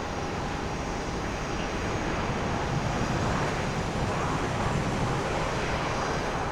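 Jet engines of a Boeing 777-200ER, GE90 turbofans, running at high power: a steady dense rumble with a thin whine on top, swelling slightly in the middle.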